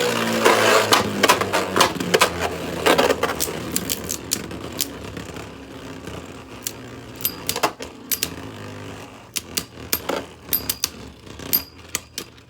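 Spinning Beyblade tops whirring and knocking into each other and the plastic stadium walls in rapid sharp clicks. The clicks are loud and dense at first and thin out as the tops slow, with another cluster of clicks near the end.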